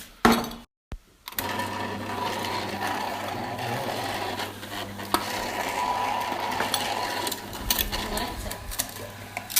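Electric kitchen blender running steadily, making homemade ice cream. It comes in about a second and a half in after a short gap, a constant hum with scattered clicks and knocks from the contents.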